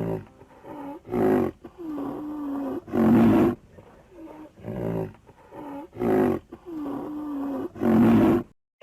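Tiger roaring in a series: about five loud roars, with quieter drawn-out calls between them, cutting off suddenly near the end.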